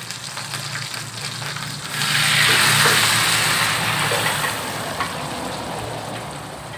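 Liquid poured into a hot aluminium pan of boiled pig trotters, sizzling. The sizzle swells sharply about two seconds in, then slowly dies down.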